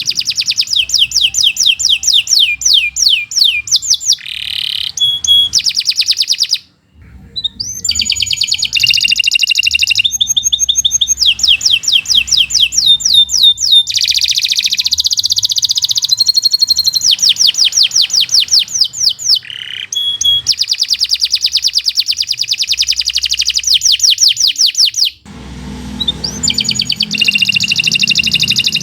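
Domestic canary singing a long, fast song of rapid repeated trills, with short breaks about 7 and 25 seconds in.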